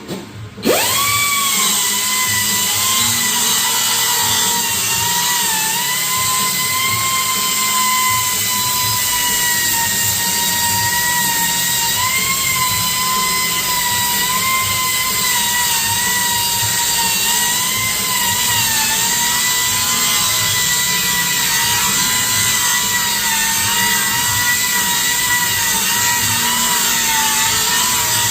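A handheld electric power tool spins up about a second in and runs steadily. Its high whine dips slightly in pitch every couple of seconds as it bears on the work.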